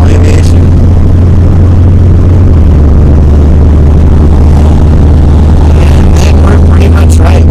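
Car driving, heard from inside the cabin: a loud, steady low engine and road drone with a noisy hiss over it.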